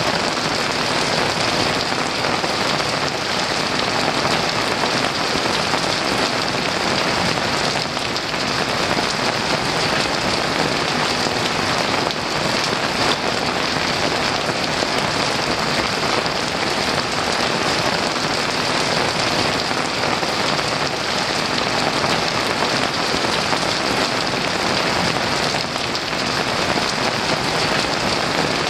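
Heavy rain falling steadily on a roof, a dense unbroken patter with no distinct thunderclap.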